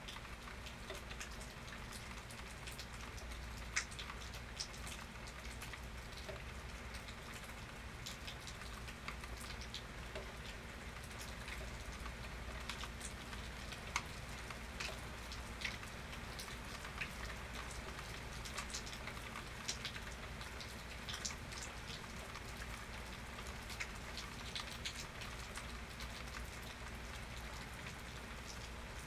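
Steady rain with scattered sharp drops and drips landing close by, some louder than the rest.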